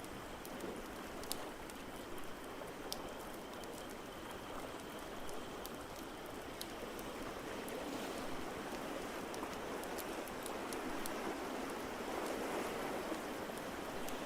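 Ocean waves washing in steadily and swelling near the end, with sparse sharp crackles from a wood fire.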